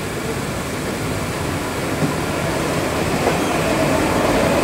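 Electric multiple-unit suburban train running along the track, heard from its open doorway: a steady rumble of wheels on rails, getting gradually louder.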